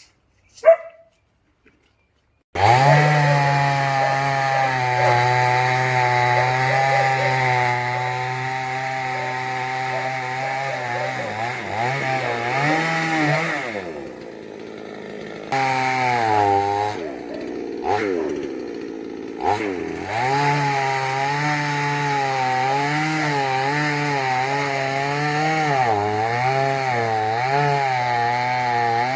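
Chainsaw engine starts abruptly about two and a half seconds in after a short click, then runs loud and steady. In the middle its engine speed dips and picks up again several times, falling away twice, as the chain takes and eases off load.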